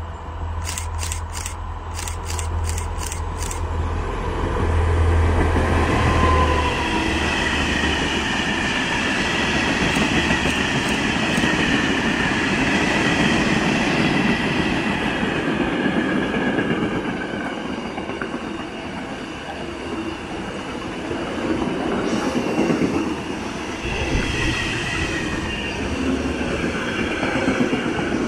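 A DB Cargo class 6400 diesel locomotive comes through with a low engine drone, loudest as it passes about five seconds in, followed by a long train of empty flat wagons rolling by with a steady rumble and a high ringing squeal from the wheels.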